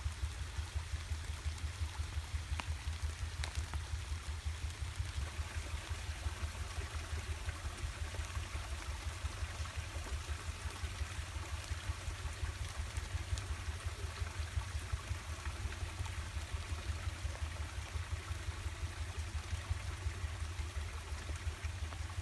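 Creek running high after rain: a steady rush of flowing water, with a strong fluttering low rumble underneath.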